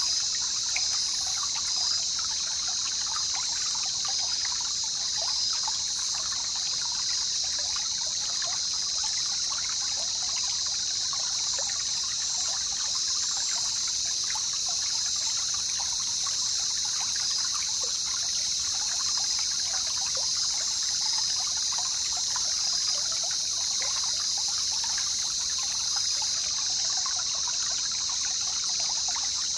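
A jungle river trickling and babbling over stones, with a steady high-pitched insect drone over it; a second, even higher insect buzz comes in about twelve seconds in and stops a few seconds before the end.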